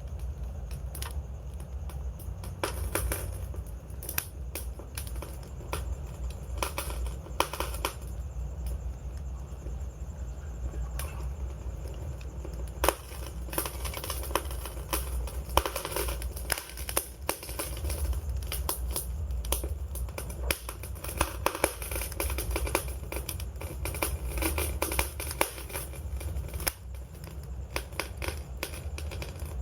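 Wood fire crackling, with frequent irregular sharp snaps over a low steady rumble.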